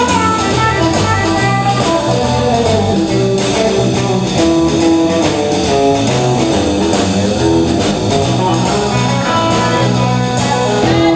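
Live blues band playing an instrumental break: a plucked guitar carries the melody over a bass line and a drum kit keeping a steady beat. The music stops about eleven seconds in.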